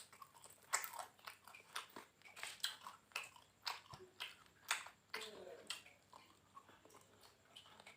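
Chewing and crunching of a fried catfish and raw-vegetable meal (lalapan lele): irregular crisp crunches and mouth clicks, several a second.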